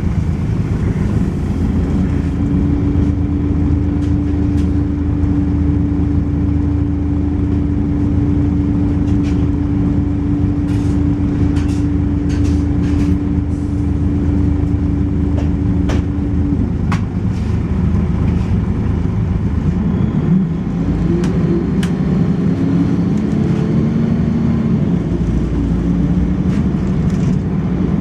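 Volvo B10BLE single-deck bus under way, its six-cylinder diesel and ZF automatic gearbox running continuously, with rattles from the body. A steady droning note stops about two-thirds of the way through, and near the end the engine note rises as the bus changes speed.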